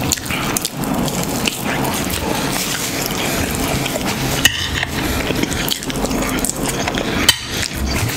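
Close-miked wet chewing and mouth sounds of a person eating, with a few short sharp clicks.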